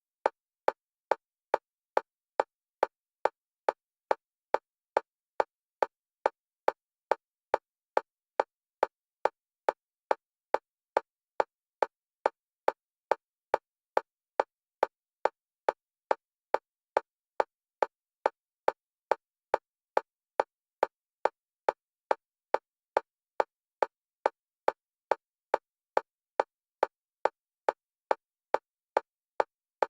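Electronic metronome clicks of a single pitch repeating evenly at about two a second, alternating between the left and right stereo channels for EMDR bilateral stimulation.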